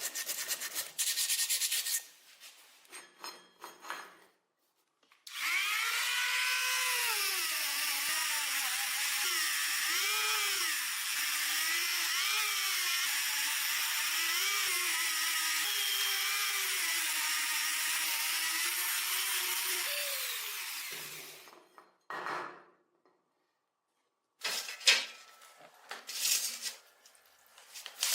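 A small handheld power tool running under load for about fifteen seconds, its whine dipping and rising as it is pressed onto the work. Before it, a few seconds of hand scraping or rubbing; near the end, a few light clicks and clinks.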